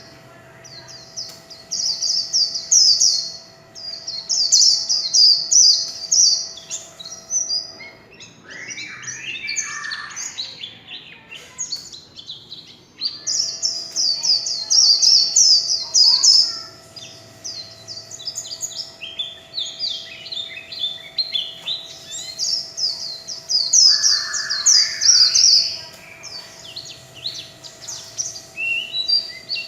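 White-eye singing in the 'líu chòe' style, the song keepers train young birds on: long runs of rapid, high-pitched twittering phrases several seconds each, with short gaps and a few lower warbled notes between them. A faint steady hum runs underneath.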